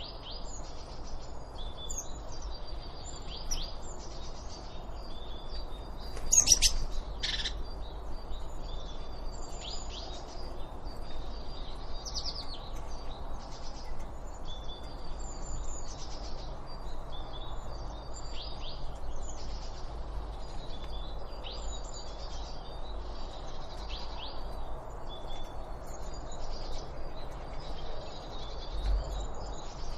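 Birds chirping and singing in quick, overlapping short calls over a steady low background hiss, with one louder call about six seconds in.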